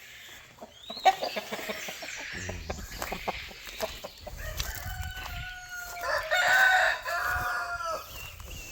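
A rooster crows with long drawn-out calls in the second half, the loudest around two-thirds of the way in, among chickens clucking. A sharp knock comes about a second in, with scattered taps around it.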